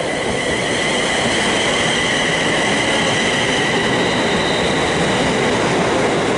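A Class 350 Desiro electric multiple unit, two units coupled, running in alongside the platform: a steady rush of wheels on rail with a high whine held over it.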